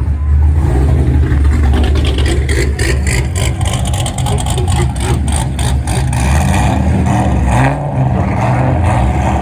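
A car's engine running loudly close by as the car comes past, with a deep, steady exhaust note.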